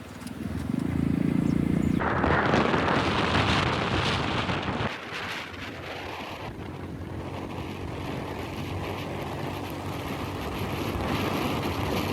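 Wind buffeting the microphone over the running engine of a motorbike on the move. The sound changes abruptly about two seconds and again about five seconds in.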